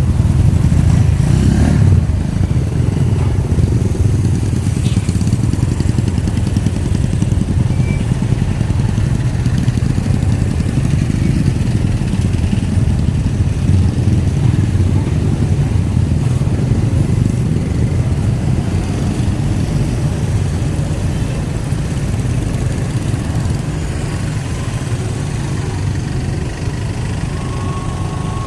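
Road traffic passing, a steady low rumble of vehicle engines and tyres that eases slightly toward the end.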